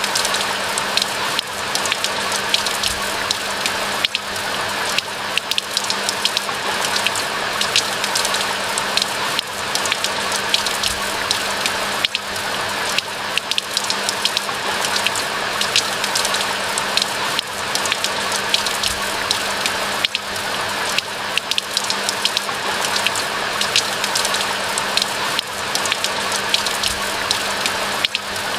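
Steady rain falling in a pine forest: a dense, even hiss of rainfall with many small sharp drop impacts scattered through it.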